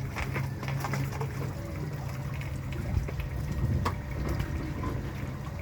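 A vehicle engine running with a steady low hum while water sloshes and trickles, with scattered small knocks: a car being worked out of a water-filled hole in the road.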